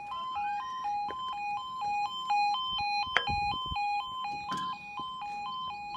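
Level crossing audible warning alarm sounding: two tones alternating, high then low, about twice a second, warning that the barriers are coming down for an approaching train. A single sharp knock about three seconds in.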